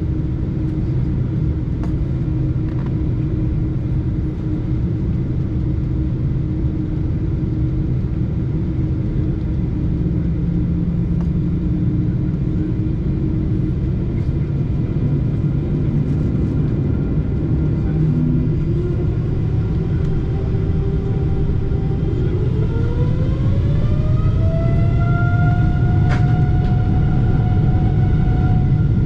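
Boeing 747-8's GEnx-2B jet engines rumbling low and steady, then spooling up about two-thirds of the way through: a whine rises in pitch over a few seconds and levels off high as thrust is advanced.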